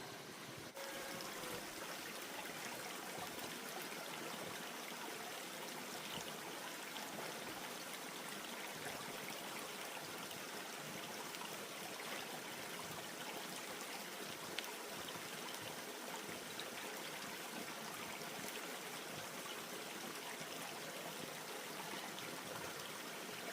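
Eggplant frying in hot oil in a pan: a steady sizzle with scattered small crackles, starting abruptly about a second in.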